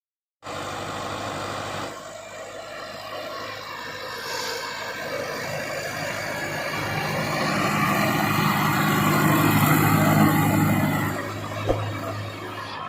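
Kubota tractor's diesel engine running steadily. It grows louder toward about ten seconds in, then eases off, with a single short knock near the end.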